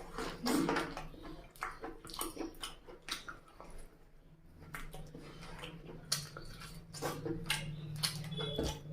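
Close-miked wet chewing and lip-smacking of a mouthful of chicken curry and rice, in quick irregular smacks and squishes, over a low steady hum.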